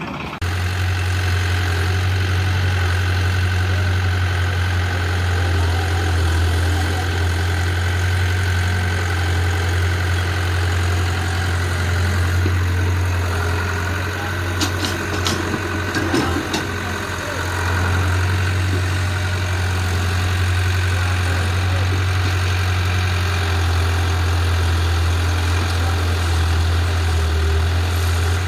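Tractor diesel engine running steadily at idle, a deep even hum, with a few sharp clicks about halfway through.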